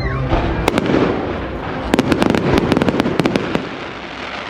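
Fireworks display: aerial shells bursting with deep booms, a sharp crack under a second in, then a rapid run of crackling reports from about two seconds in, dying away near the end.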